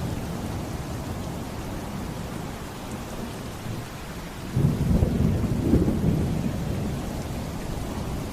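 Steady rain with a thunder rumble that breaks in suddenly about halfway through, loudest for a couple of seconds, then dies back into the rain.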